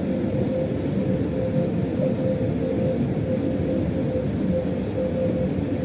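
Freight locomotive running, heard from inside the driver's cab: a steady rumble of the train under way, with a hum that comes and goes.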